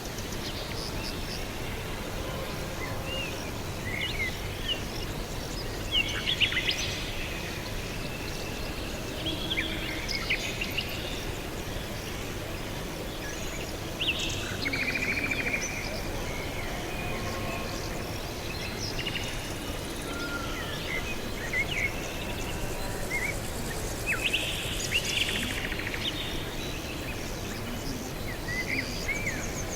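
Several small birds chirping and calling on and off: short quick chirps and twittering notes from different birds, over steady background noise.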